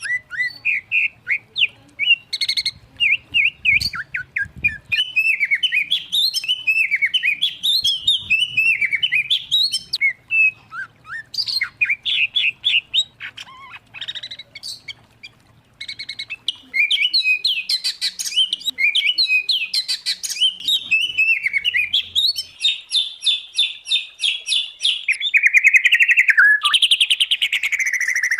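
Songbird song from a mix of white-rumped shama, oriental magpie-robin and greater green leafbird: a fast, varied run of whistles, chirps and trills, with a quieter spell about halfway through and fast, rattling repeated notes near the end.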